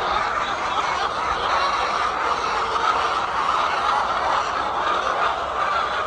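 Dense, steady chatter of a large flock of laying hens clucking all at once, a continuous overlapping din.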